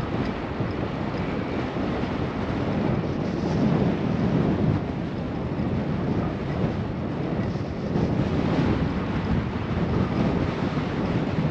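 Wind buffeting a GoPro's windscreened microphone during a bike ride: a steady low rumble that swells a little about a third of the way in and again near two-thirds.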